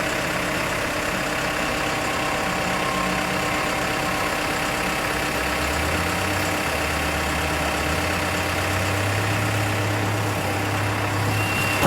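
A truck engine idling steadily. A deeper low hum joins in about five seconds in and steps up a little a few seconds later.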